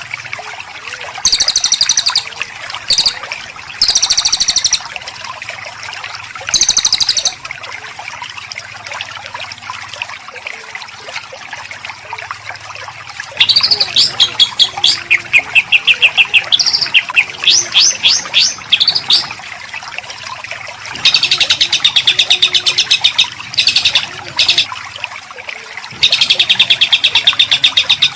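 Small songbird singing in loud bursts of very rapid, harsh, closely packed high notes, the dense rough 'shots' of a masteran track, broken by short pauses. About halfway through comes a run of quick separate sweeping notes before the dense bursts return, over a faint steady hiss.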